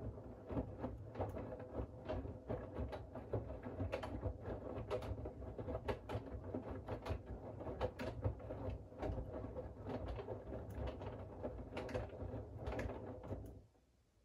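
Siemens iQ700 WG56B2090 front-loading washing machine turning its drum in one wash stroke: a low hum and rumble with many small knocks and clicks of the wet laundry tumbling. It starts at once and stops suddenly near the end, the pause in the wash rhythm.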